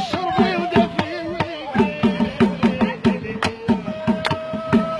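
Gasba reed flute playing a sustained, wavering melody over a steady hand-drum rhythm.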